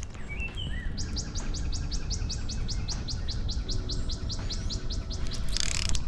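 A songbird singing a long, even trill of quick high chirps, about five a second, after a few lower chirps at the start, over a steady low rumble.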